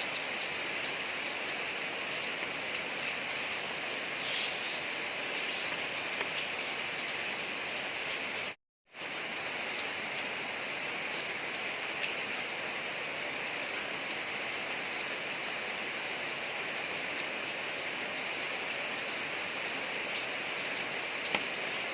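Steady rain falling on a street, a constant hiss with scattered drop ticks. The sound cuts out completely for a split second about eight and a half seconds in, then resumes unchanged.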